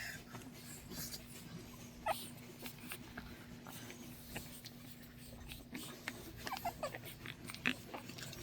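Six-week-old pug puppies making scattered small squeaks and whimpers, with brief chirps about two seconds in and again near the end, over a faint steady hum.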